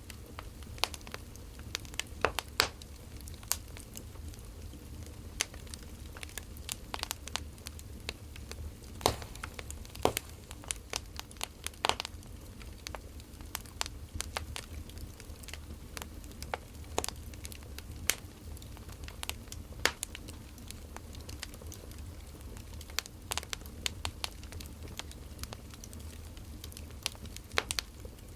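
Burning firewood crackling, with irregular sharp snaps and pops at uneven intervals, several of them loud, over a steady low hum.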